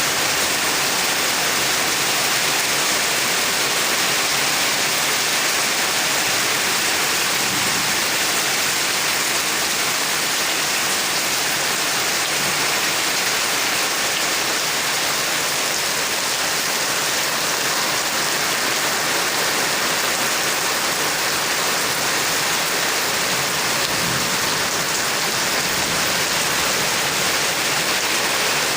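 Heavy rain pouring down steadily, an even downpour hiss.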